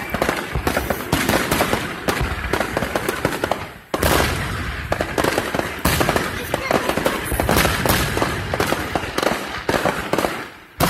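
Aerial fireworks going off in rapid succession: a dense, continuous run of crackles and bangs, with a brief lull about four seconds in before it resumes.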